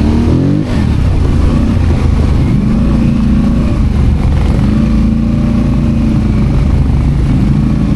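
ATV engine running under way on a trail, its pitch shifting up and down with the throttle over a heavy low rumble.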